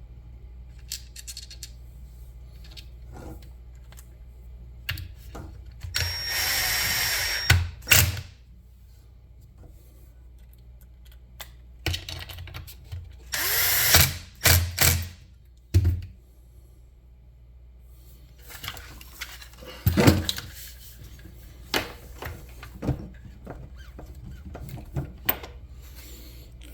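Handheld power drill run in several short bursts, each about a second or two long, with clicks and knocks of tools and metal parts between them.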